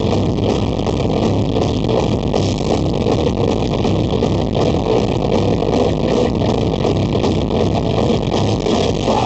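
Loud rock music with distorted electric guitar, played live by a band.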